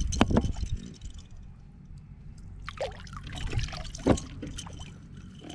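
Water splashing and dripping as a catfish is hauled out of the river into the boat, with a few sharp knocks near the start and a scattered splash a few seconds in.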